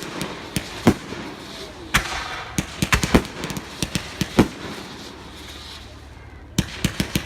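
Fireworks going off: sharp bangs and crackles at irregular spacing, then a quieter lull of about two seconds, then a quick volley of bangs near the end.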